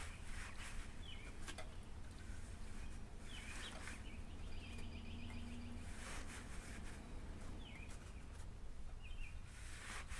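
Faint outdoor ambience: a few short bird chirps and a brief trill about halfway through, over a steady low rumble.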